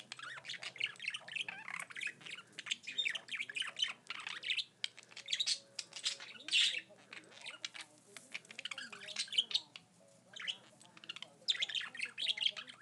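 Male budgerigar chattering and warbling to his own reflection in a mirror: a fast jumble of squawks and chirps in bouts, with short pauses.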